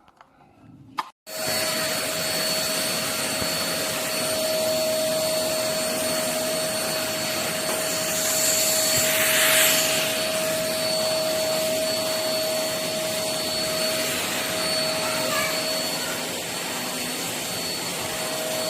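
Vacuum cleaner switched on with a click about a second in, then running steadily with a constant whine over the rushing suction noise. The sound swells briefly about halfway through and cuts off suddenly at the end.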